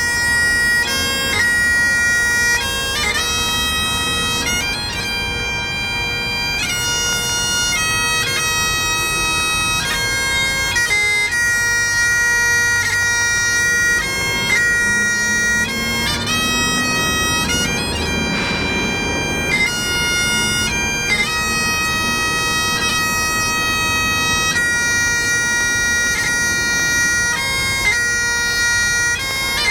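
Highland bagpipes playing a slow tune over a steady drone.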